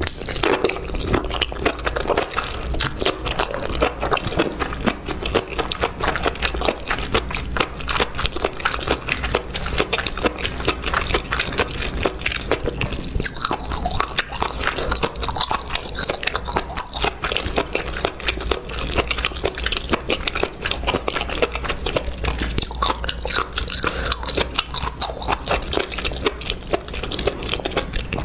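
Close-miked eating sounds of a person chewing a mouthful of spicy sauced beech mushrooms: a dense, continuous run of crunches and mouth clicks.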